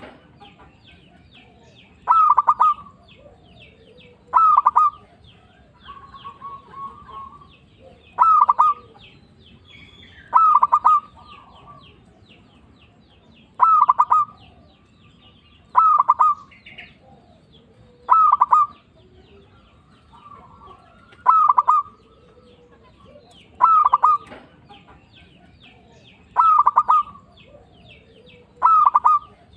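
Zebra dove (perkutut) cooing: a short rippling phrase of several notes, repeated about every two to two and a half seconds, about thirteen times in a row. Faint high chirping runs between the phrases.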